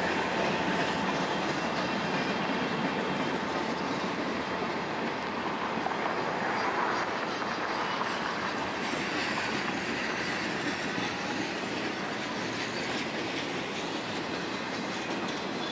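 A freight train's flatcars rolling past on steel rails: a steady rumble with wheels clicking over the rail joints.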